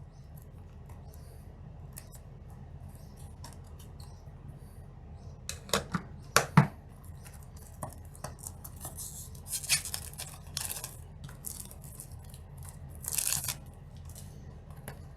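A trading-card theme deck box being opened by hand: faint crackling and tearing of packaging, with a few sharp clicks about six seconds in and short bursts of rustling later on.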